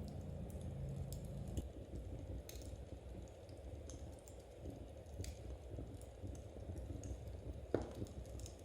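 Knitting needles clicking softly and irregularly as stitches are worked, over the low rumble and scattered crackle of a wood fire, with one sharper pop a little before the end.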